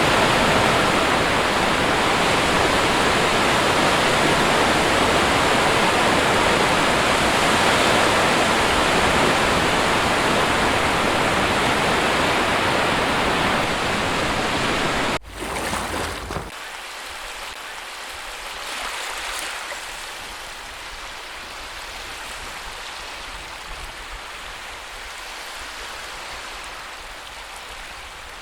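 Sea waves and surf making a steady, full rush of water. Just past halfway it cuts out for an instant and changes to a quieter, thinner wash without the low rumble.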